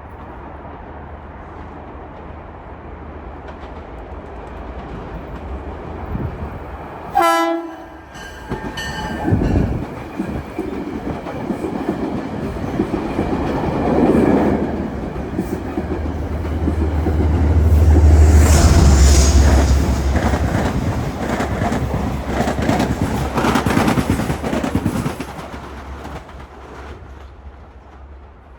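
Metro-North commuter train giving one short horn blast, then rumbling past with rapid clickety-clack from the wheels over the rail joints, loudest about two-thirds of the way through and fading near the end.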